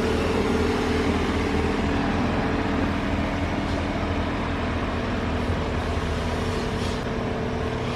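Canal boat engine running steadily, a continuous low hum.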